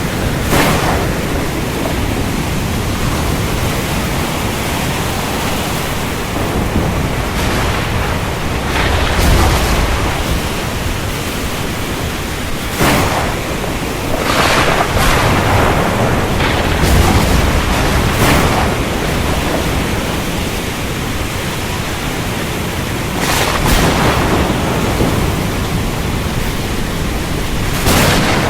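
Steady heavy rain with repeated sharp thunder cracks, about a dozen in all. Deep thunder rumbles swell up about a third of the way in and again just past halfway.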